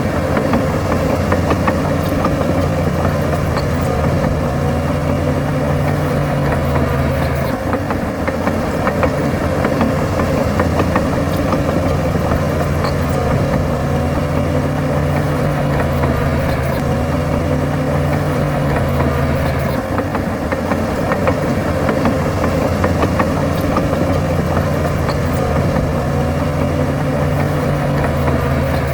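Heavy diesel earthmoving machinery running steadily. Its deep engine note swells for several seconds at a time, then eases back, about three times.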